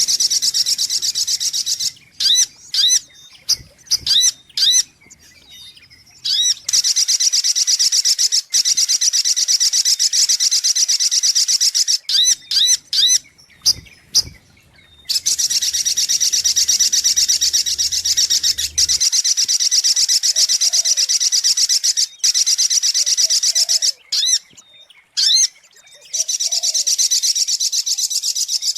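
Sogok ontong (little spiderhunter) calling: long, fast, high-pitched trills that run for several seconds at a time, with short bursts of separate chirps between them.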